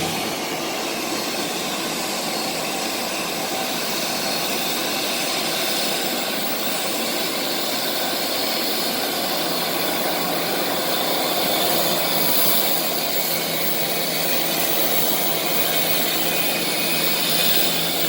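Private jet taking off, its jet engines making a steady rushing noise spread from low to high pitch.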